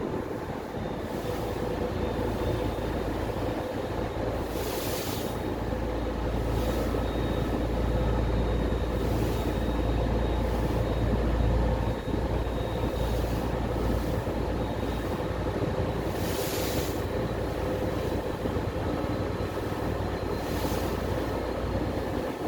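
A ferry's engine drones steadily under a hiss of wind and water, with two brief louder rushes of noise, one about five seconds in and one past the middle.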